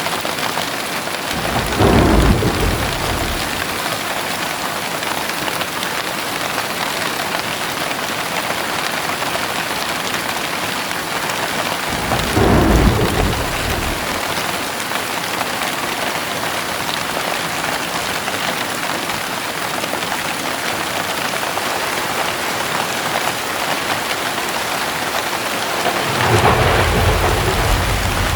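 Heavy rain falling steadily, with rolls of thunder rumbling low three times: about two seconds in, near the middle, and again near the end.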